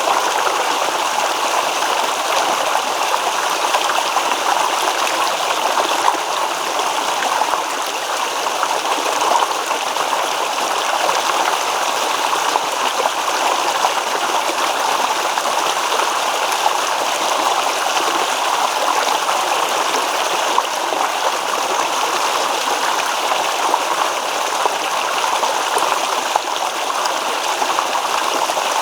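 A shallow stream babbling and rippling steadily over stones, an even rush of water without pauses.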